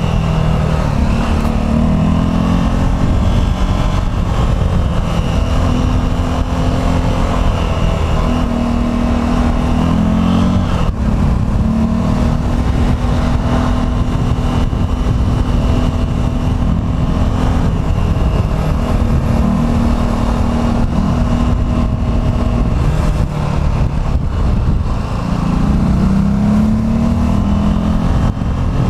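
Vehicle engine running on the move, with heavy road and wind rumble; its pitch steps up and down several times as it speeds up and changes gear.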